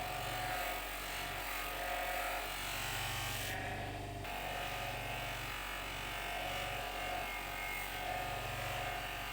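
A small electric power tool running steadily with a buzzing motor hum.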